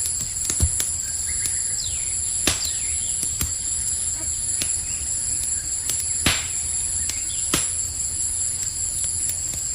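Wood campfire crackling, with sharp pops every second or so, the loudest about two and a half and six seconds in, over a steady high chirring of crickets.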